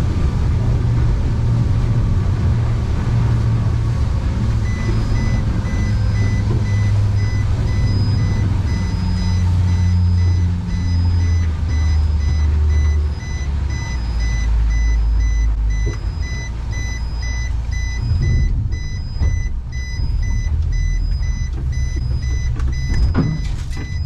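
A heavy engine running with a low rumble that shifts pitch, and from about five seconds in a vehicle's reversing alarm beeping steadily.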